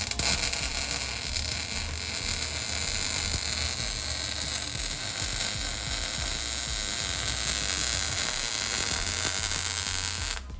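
Welding arc on a car's exhaust pipe, joining a straight pipe in place of the muffler: a steady hiss that starts suddenly and cuts off just before the end.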